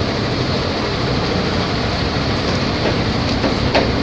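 Volvo B270F bus running on the road, heard on board: a steady engine rumble mixed with road noise and rattling from the body, with a few sharp clicks near the end.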